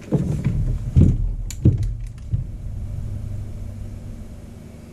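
Three dull, low thumps in the first two seconds, like things being handled and set down on a workbench, then a low rumble that fades away.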